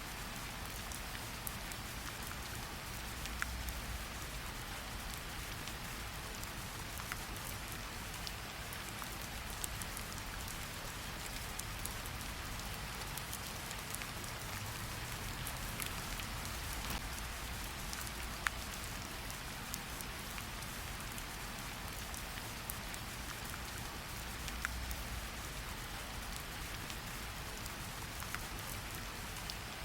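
Steady rain with scattered sharp crackles and pops from a wood fire over a soft low rumble.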